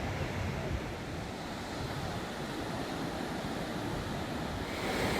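Steady rushing of ocean surf, with wind buffeting the microphone.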